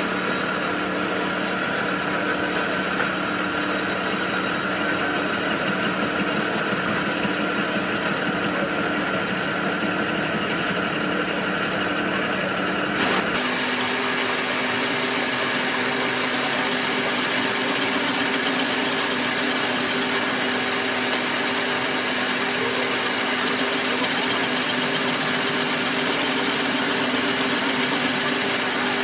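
A machine motor running steadily with a constant hum; about 13 seconds in its pitch steps abruptly higher.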